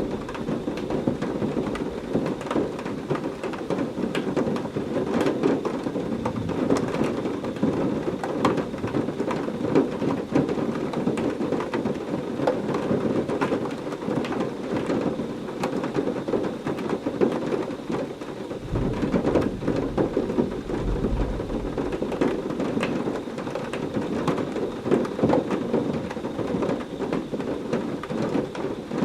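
Heavy rain falling steadily, a dense patter of drops, with a low rumble of thunder about two-thirds of the way through.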